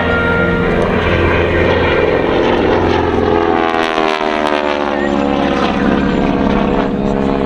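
Propeller airplane's engine running loud as it flies past, its pitch dropping about three to five seconds in.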